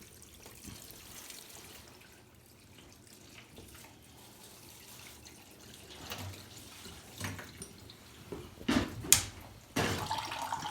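Water being poured into a furnace's condensate drain line, trickling and dripping through the trap. Late on, a sharp click, then a louder flow of water starts.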